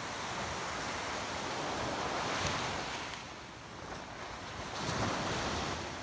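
Ocean surf washing onto a beach, swelling twice, about two and a half seconds in and again near five seconds, with wind buffeting the microphone.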